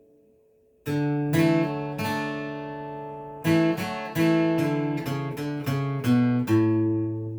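Acoustic guitar playing: a held chord dies away, then a new chord is struck about a second in, followed by a quicker run of picked notes and chords in the second half.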